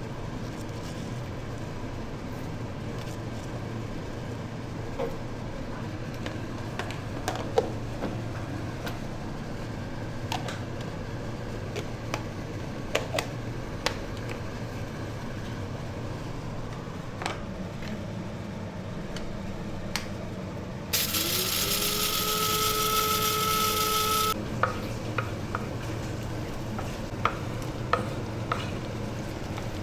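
Food sizzling in a pan, with scattered sharp clicks of a utensil against it. About two-thirds of the way in, a much louder whirring sound lasts about three seconds; its pitch rises, holds, then cuts off suddenly.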